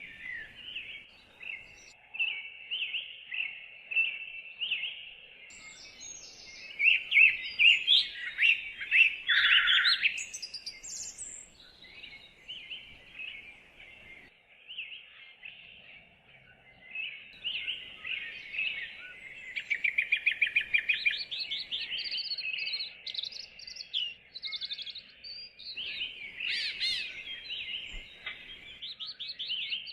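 Several songbirds singing and chirping together in woodland, a steady chorus of quick chirps and trills, with louder bursts of song about a third of the way in and again past the middle.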